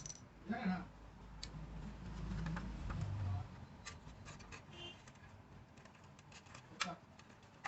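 Scattered sharp clicks and light scraping, with a low rumble about two seconds in.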